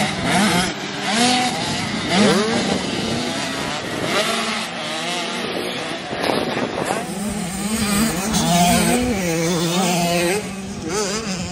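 Several motocross bikes racing, their engines revving up and down over each other as the riders accelerate and shift.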